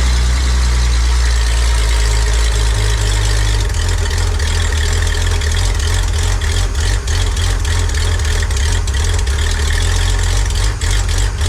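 1965 Ford Econoline's engine idling steadily on the choke just after a cold start, a loud, even low drone.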